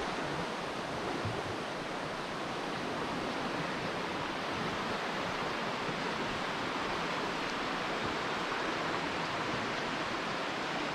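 Deep Creek's rushing water: a steady, unbroken wash of flowing creek.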